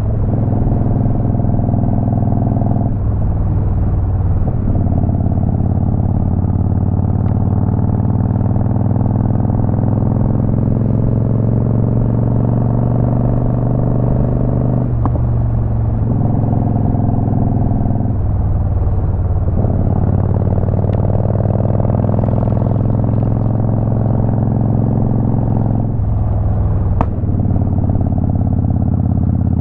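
Motorcycle engine running at road speed, its revs climbing steadily and then breaking off briefly at about five gear changes or throttle lifts.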